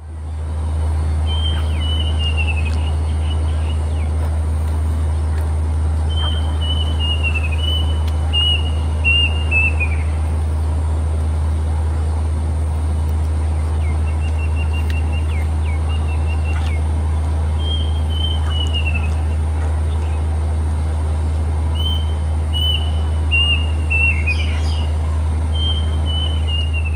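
Plaintive cuckoo singing: repeated phrases of short whistled notes that step down in pitch, about six phrases with a few seconds between them. A steady low hum runs underneath.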